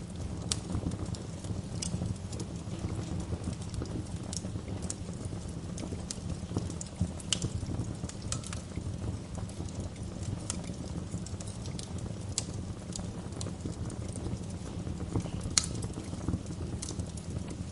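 Wood fire crackling in a fireplace: irregular sharp pops and snaps over a steady low rumble of the burning fire, with a louder pop about seven seconds in and another near fifteen and a half seconds.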